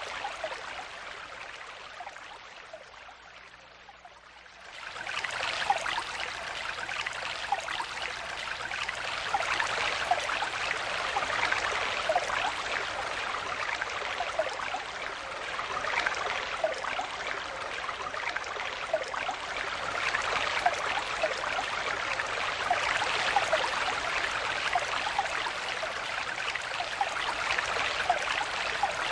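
Stream water flowing and babbling, with many small gurgles. It dips over the first few seconds, then swells back about five seconds in and runs on steadily.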